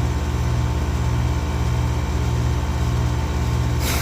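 R-410A air-conditioning condensing unit running, a steady low compressor-and-fan hum with a slow throb, while the system stays restricted, which the technician puts down to a blocked evaporator coil or its strainer. A brief falling squeak sounds right at the end.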